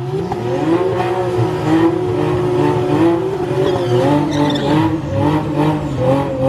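Loud drag-race car engines running and revving, with several overlapping engine notes whose pitch rises and falls, and short repeated crackles over the top.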